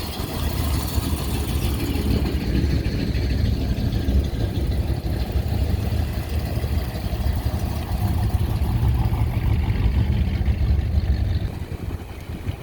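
A car's engine running as it drives past, a steady low rumble that drops away near the end.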